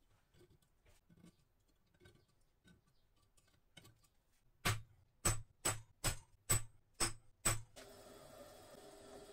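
Light tapping, then seven sharp metallic strikes about two to three a second, each with a brief high ring, like hammer blows on steel. Right after the last strike a steady motor hum with a low whine starts and keeps running.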